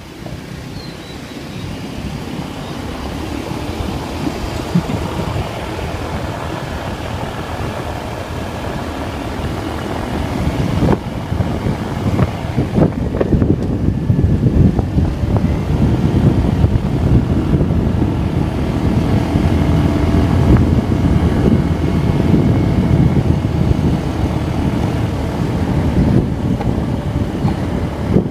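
Vento Terra motorcycle being ridden, its engine running under wind rushing over the microphone. The sound grows steadily louder over the first dozen seconds, then holds.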